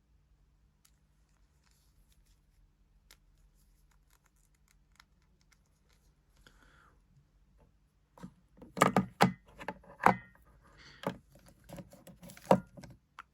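Small plastic toy figures being handled: faint scattered clicks at first, then a run of louder clicks, scrapes and rustles from about eight seconds in.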